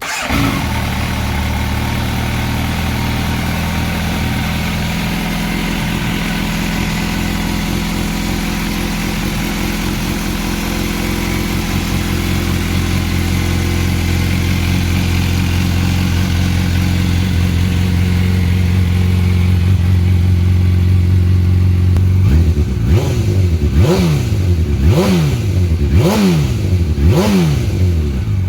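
MV Agusta F4 inline-four engine, a replacement Evo2 unit breathing through a catalyser and Motocorse silencer, firing up and settling into a steady idle. About 22 seconds in it is blipped, the revs rising and falling about once a second, five or so times.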